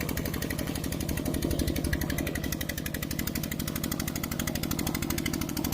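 Mini tractor engine running with a rapid, even chugging beat, a little louder between about one and two seconds in.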